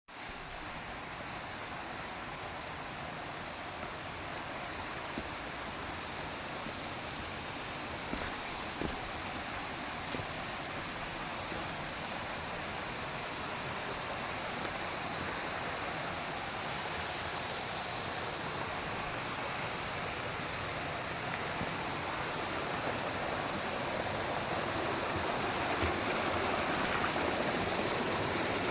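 Flowing stream water rushing steadily, with a high insect drone on top that steps up and down in pitch every three to four seconds.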